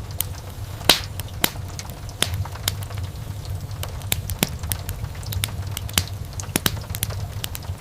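Wood fire burning in a fireplace: irregular sharp crackles and pops over a steady low rumble of the flames, with the loudest pop about a second in.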